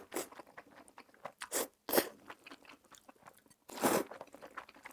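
Close-miked eating sounds: a string of short, irregular bites and chewing noises, the loudest about two seconds and four seconds in.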